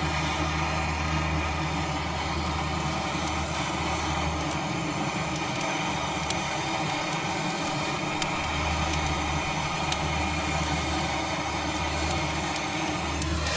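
An engine running steadily with an even hum, as at idle.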